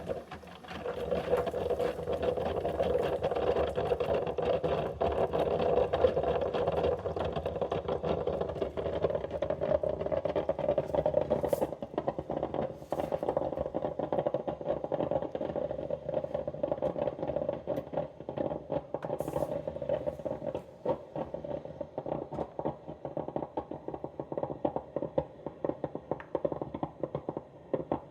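OXO drip coffee maker brewing, a steady mechanical hum with rapid rattling ticks. It grows choppier and uneven over the last several seconds as the water reservoir runs nearly empty.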